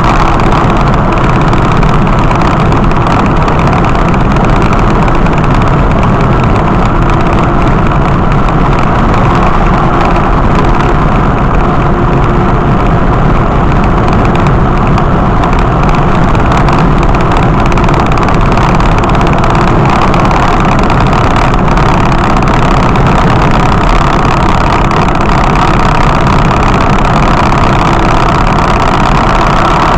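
A vehicle's engine running with steady road noise, loud and unchanging throughout.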